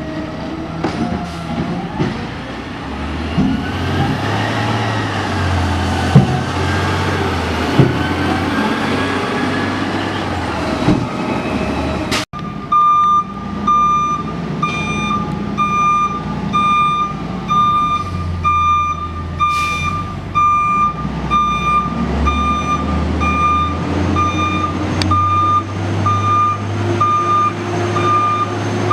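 Garbage truck's diesel engine running, with two loud knocks partway through. After a short break, its reversing alarm beeps steadily, about once a second, over the engine.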